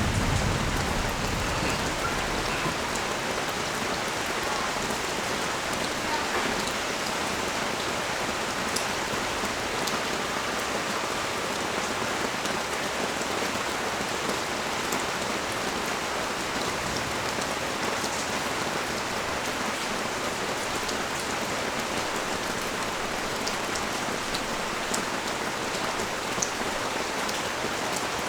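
Steady rain falling on a street and balcony, an even hiss with scattered drop ticks. The tail of a thunder rumble dies away in the first second or so.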